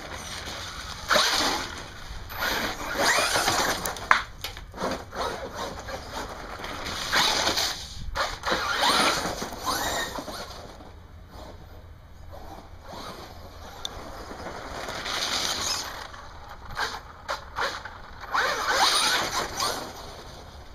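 Radio-controlled trucks running through wet snow: irregular surges of motor whine and slushy churning lasting a few seconds each, with quieter lulls between.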